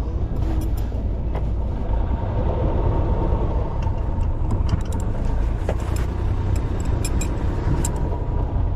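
Sailing yacht's inboard engine running steadily with a low rumble while the boat manoeuvres, with scattered light clicks.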